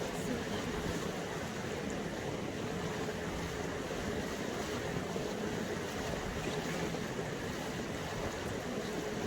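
Boat on the move: a steady engine hum with water rushing past the hull and wind on the microphone.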